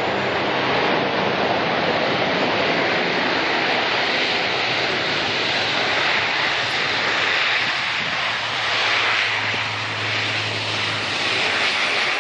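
Jet engines of a Boeing 787-9 Dreamliner running with a steady, loud rush of engine noise.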